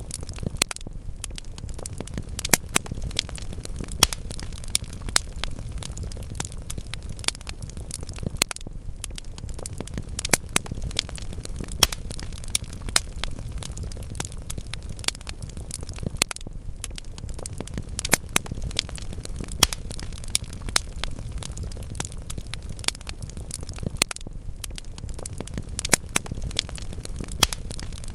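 Wood fire in a fireplace crackling, with frequent sharp pops from the burning logs over a low, steady rumble of the flames.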